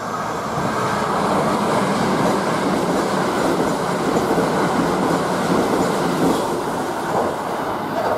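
Kintetsu limited express electric train passing through the station at speed, its wheels rushing and clattering over the rail joints. The noise builds as it arrives and eases off near the end as the last car clears.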